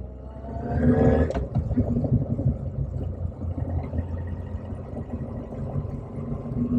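Motorcycle engine revving up with a rising pitch, broken off by a sharp click about a second and a half in, then running steadily at lower revs.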